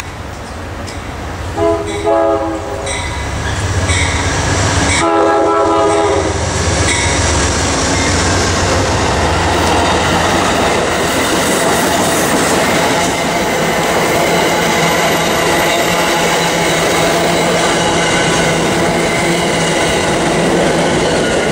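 Amtrak passenger train's diesel locomotive sounds its horn chord twice as it approaches: a short blast about two seconds in and a longer one about five seconds in. The train then passes close by at speed, with a steady rush and the clatter of the stainless-steel cars' wheels over the rails.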